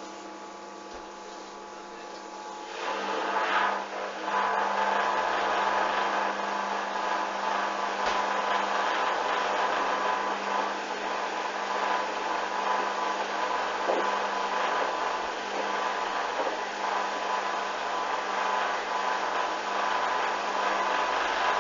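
Hoover washing machine going into its intermediate spin: quiet for the first couple of seconds, then the motor and drum spin up about three seconds in and run on with a steady whine and rushing noise.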